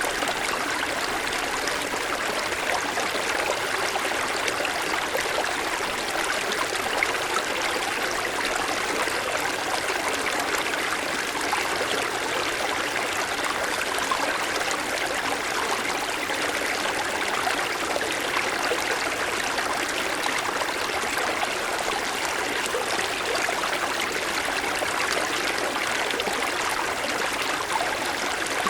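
Mountain stream running over snow-covered stones: a steady, even rush of flowing water.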